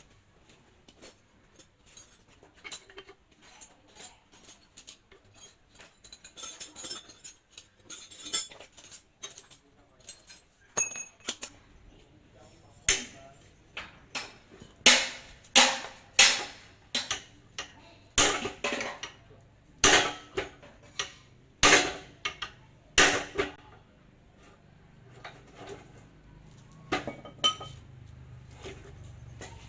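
Metal tools and parts of a hand pallet truck's hydraulic pump clinking and tapping during repair. In the middle comes a run of about a dozen loud, sharp metal strikes, roughly one a second.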